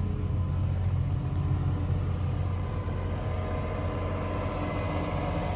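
John Deere 310SK backhoe loader's Tier 3 diesel engine idling steadily with a low, even rumble.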